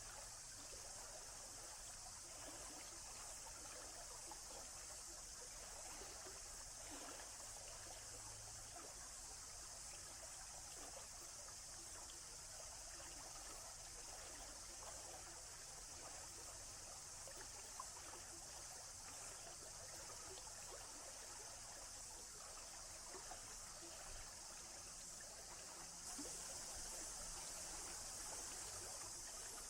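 Forest stream trickling steadily, with many small splashes, a little louder about 26 seconds in.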